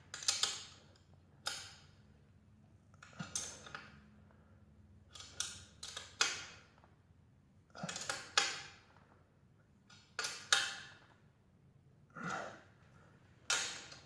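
Ratchet wrench tightening exhaust bolts: about a dozen short ratcheting strokes with pauses between them, the final quarter turn after snugging.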